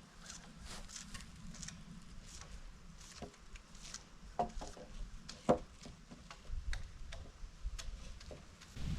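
Scattered light taps and knocks of wood on wood, the sharpest about five and a half seconds in, as boards and lumber are handled.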